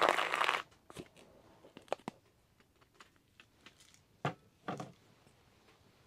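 A short burst of rustling at the start, a few light clicks, and two short rustles a little over four seconds in.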